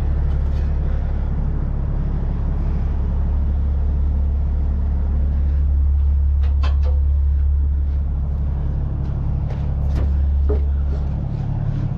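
Peterbilt 379 semi truck's diesel engine idling, a steady low drone, with a few light metallic clicks from work around the trailer; the drone drops off about a second before the end.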